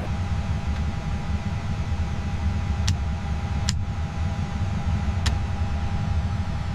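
Steady low engine rumble with a thin steady whine above it, and three short sharp clicks in the middle.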